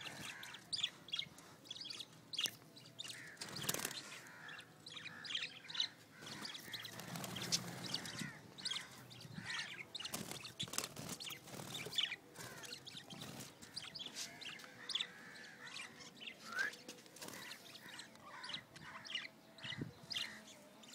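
Pet parrots chirping: many short, high chirps scattered throughout, with a few sharp knocks among them.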